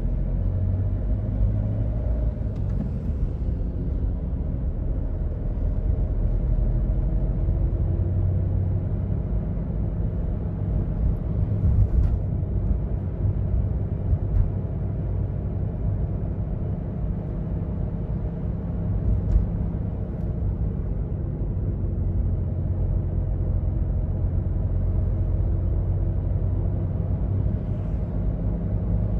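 Cabin drone of a 2005 Toyota Yaris diesel's 1.4-litre four-cylinder engine and tyre rumble while cruising, a steady low rumble. A few short knocks or rattles stand out briefly, around the middle and near the end.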